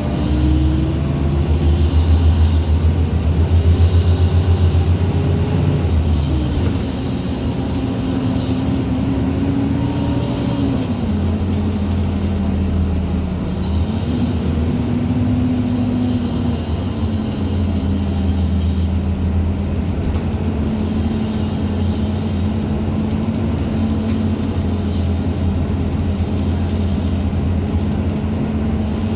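MAN Lion's City G articulated bus running, with the whine of its differential and gearbox over the low engine rumble. The whine climbs and drops several times, then holds fairly steady for the second half.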